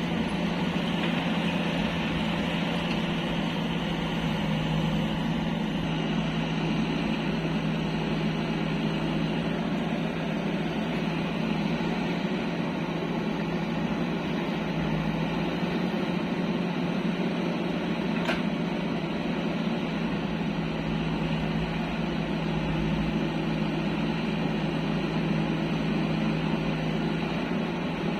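Heavy-machinery diesel engine, from a tractor or JCB loader, running steadily at constant speed with an even hum.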